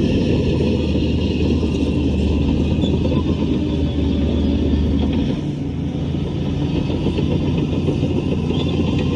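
Heavy diesel earthmoving machinery running steadily under work; about five seconds in, the engine note changes pitch and briefly drops a little in level.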